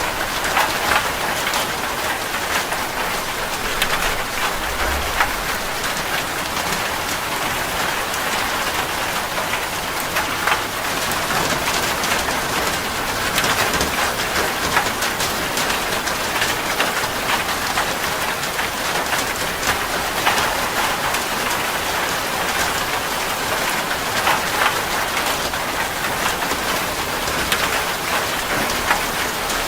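Heavy rain falling on a metal roof: a steady, even hiss packed with sharp individual drop hits.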